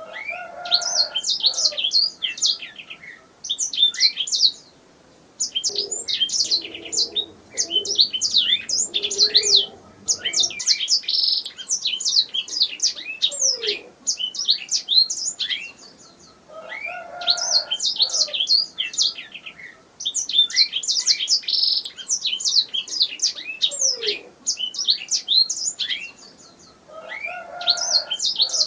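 Domestic canary singing: long, fast phrases of chirps and rolling trills, with short breaks between phrases.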